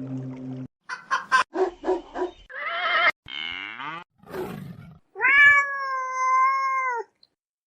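Ocelot calling: a quick run of short calls and a wavering cry, then one long, drawn-out meow-like call lasting about two seconds.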